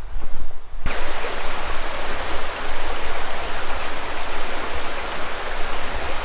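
Rushing water of a river or stream, a steady dense hiss that comes in suddenly about a second in.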